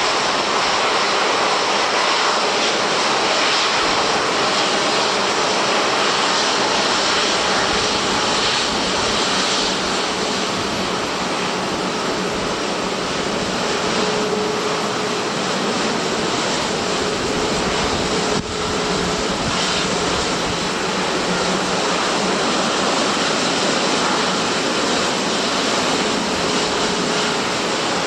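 Airliner engines running, a loud steady noise without let-up, with a brief dip about two-thirds of the way through.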